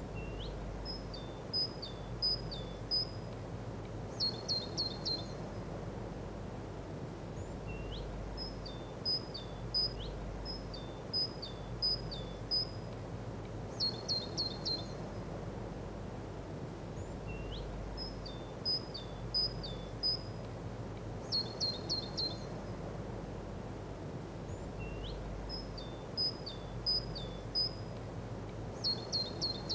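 A songbird singing the same short phrase four times, several seconds apart: a rising note, a string of chirps and a quick trill. Under it runs a steady low outdoor rumble.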